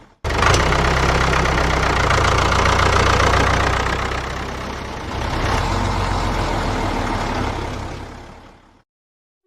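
Heavy vehicle engine running steadily. It cuts in abruptly just after the start, dips and swells again about halfway, and fades out near the end.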